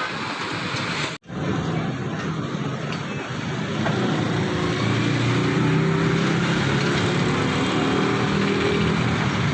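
Street traffic noise, with an engine running steadily from about four seconds in.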